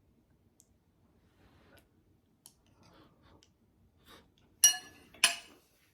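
Faint small clicks, then two sharp ringing clinks about half a second apart near the end: an eating utensil striking a dish while the stir-fry is being eaten.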